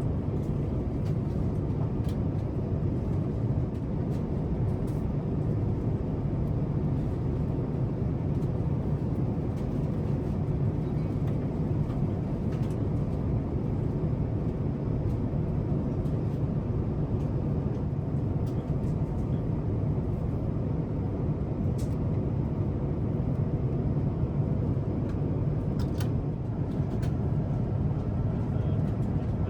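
Steady low rumble of an Airbus A350-1000 cabin in flight: engine and airflow noise holding at one level, with a few faint clicks.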